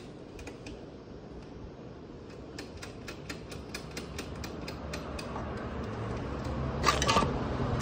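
Rapid, evenly spaced metallic clicks, about five a second, as screws are driven to fasten the compressor's mounting feet. Near the end comes a louder clatter of metal, over a low rumble that builds through the second half.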